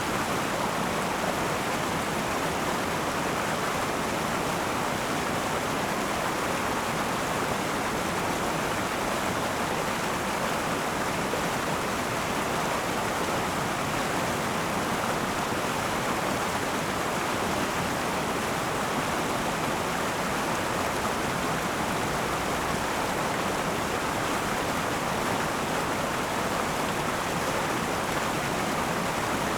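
Akan River flowing: a steady rush of running water over the riverbed, even throughout.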